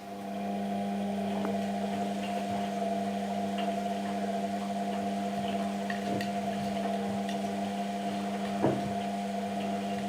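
Washing machine motor switching on and running with a steady electric hum, with a single knock near the end.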